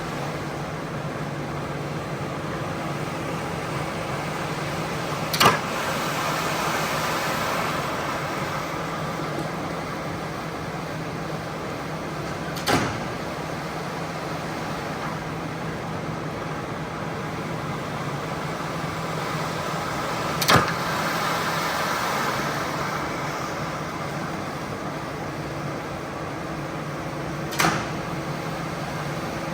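A machine running steadily with a low hum, broken by a sharp click or knock about every seven seconds; after some clicks a hiss swells for a couple of seconds and then settles.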